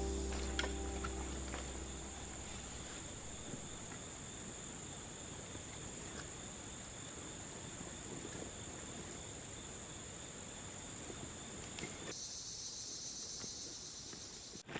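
A steady, high-pitched chorus of crickets and other insects. Background music fades out in the first two seconds, and the chorus shifts in pitch about twelve seconds in.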